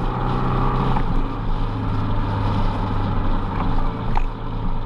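Yamaha Ténéré 700 parallel-twin engine running steadily on the move, its note dropping slightly about a second in, with wind and road noise rushing over the microphone.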